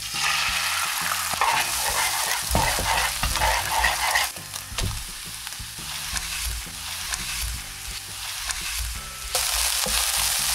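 Beaten eggs and then rice sizzling in a hot, buttered nonstick frying pan with sliced green onions, fried on fairly high heat, while a spatula stirs, scrapes and knocks against the pan.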